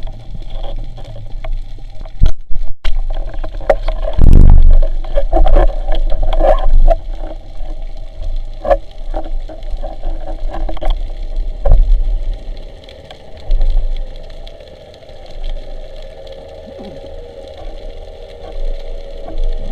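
Underwater sound on a spearfishing dive: irregular knocks and bumps with water rushing over a steady low rumble, loudest about four seconds in and again about twelve seconds in.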